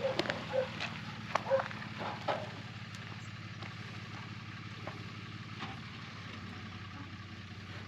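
Vehicle engine idling with a steady low hum, with several sharp clicks and knocks in the first two seconds or so.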